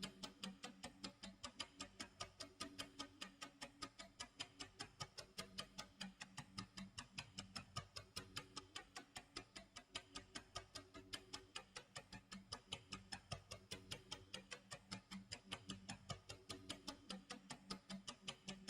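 Clock tick-tock sound effect of a countdown timer: rapid, even ticking with no pause, faint low tones underneath.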